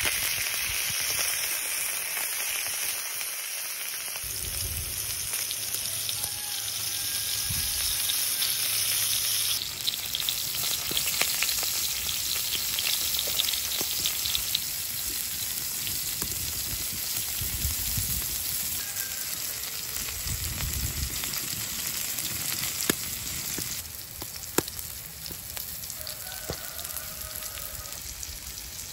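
Whole octopus frying in hot oil in a wide pan: steady sizzling with fine crackles and spits. The sizzle is loudest for the first ten seconds, eases off a little later on, and a few sharp pops stand out.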